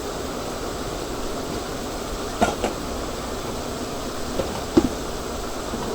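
Steady rushing noise of a street-food stall's cooking equipment, with a few short knocks, two about two and a half seconds in and two more near four and a half seconds.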